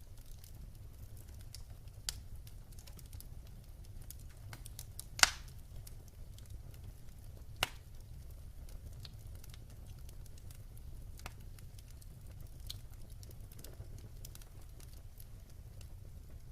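Wood fire crackling in a fireplace: scattered small clicks over a steady low rumble, with a loud sharp pop about five seconds in and a second, smaller pop a couple of seconds later.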